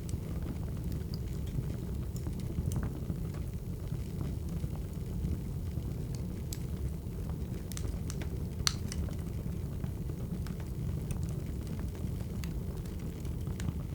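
Wood fire crackling: a steady low rumble of burning logs with scattered sharp pops and snaps, one louder pop about nine seconds in.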